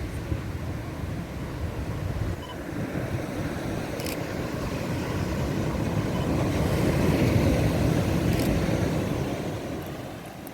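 Atlantic surf breaking on the shore, a steady wash that builds to its loudest about seven seconds in and then eases off. Two faint camera clicks come through over the waves.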